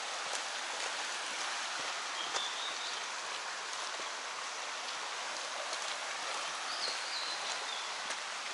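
Mountain stream flowing steadily, with short bird chirps about two seconds in and again near seven seconds, and a few light clicks.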